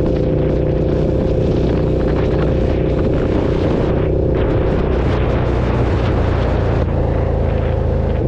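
KTM 1290 Super Duke's V-twin engine running at a steady cruise, its note holding even throughout, with a rushing noise over it.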